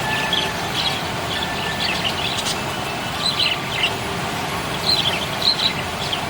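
Budgerigars chirping: short, quick high chirps in scattered clusters, the busiest a little after three seconds in and again about five seconds in, over a steady background noise.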